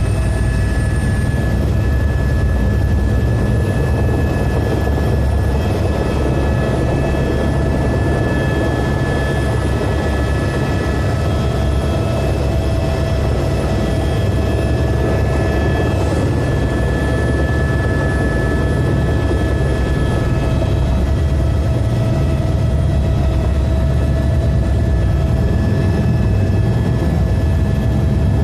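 Medical helicopter running steadily: a heavy low rotor rumble with steady high turbine whine tones over it.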